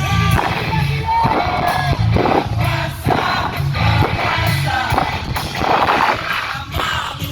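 Live rock band playing loudly, with a singer's voice over a steady bass and drum groove.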